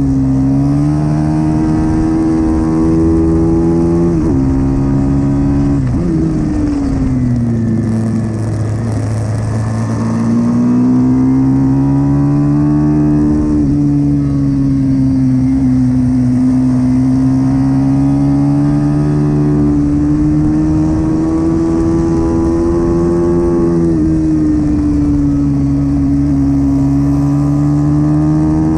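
A pit bike's engine is run hard in a supermoto race. Its pitch climbs and falls continuously, with several sudden drops as the revs come down, about four seconds in, six seconds in, near fourteen seconds and near twenty-four seconds.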